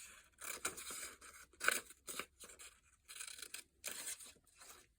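Scissors cutting through paper, a series of short irregular snips.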